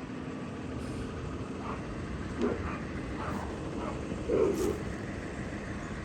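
A vehicle engine running steadily, with short separate sounds over it about two and a half and four and a half seconds in.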